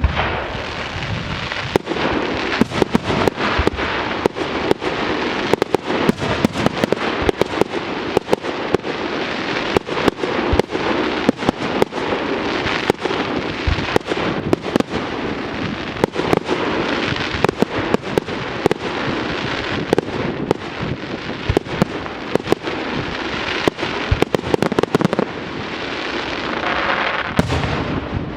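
Fireworks display: a dense, continuous barrage of sharp bangs over steady crackling.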